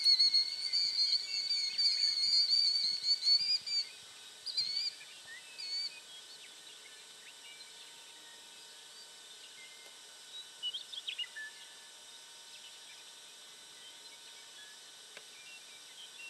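A bird singing a continuous warbling, high-pitched song for about four seconds, then a few short notes and a brief falling call midway, over faint outdoor background noise.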